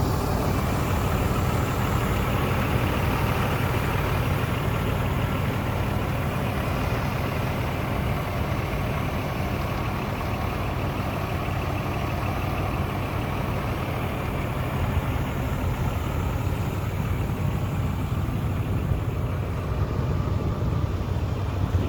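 Scania P420 hooklift truck's diesel engine idling steadily.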